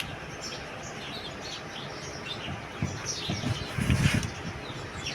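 Small birds chirping repeatedly in quick, short calls, with a few low, dull sounds of handling about three to four seconds in.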